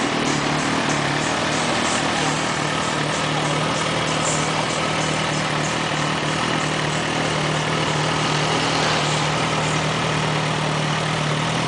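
2008 Suzuki GSX-R1000's inline four-cylinder engine idling steadily, its note holding even with no revs.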